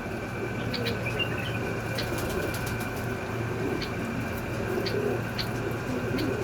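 Homing pigeons cooing repeatedly, over a steady hum and a few faint clicks.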